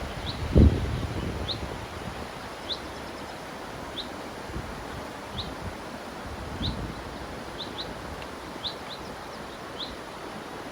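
A small bird chirping repeatedly, one short high note about every second and sometimes two in quick succession, over the steady rush of a river. About half a second in there is a brief low thump.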